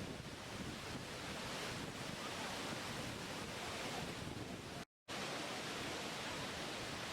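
Steady rush of water, an even hiss with no distinct events. About five seconds in it cuts out to silence for a fraction of a second, then resumes.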